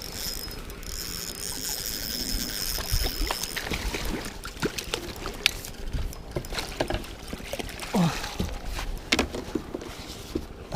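Water trickling and lapping at the water's edge, with scattered small clicks and knocks from handled fishing tackle.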